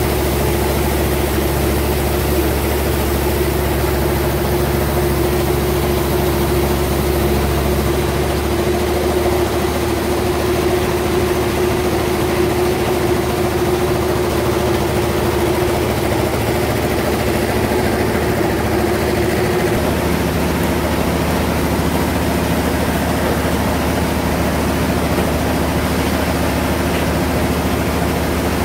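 Sawmill bandsaw machinery running with a loud, steady hum. Its sound shifts about eight seconds in, and a steady mid-pitched tone fades out around twenty seconds in.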